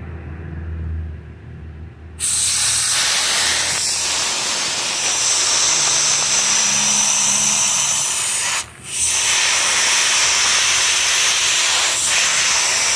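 Sandblaster nozzle hissing loudly as it blasts corrosion off a metal ball. A low hum runs for the first two seconds, the blast starts about two seconds in, and it stops briefly about two-thirds of the way through.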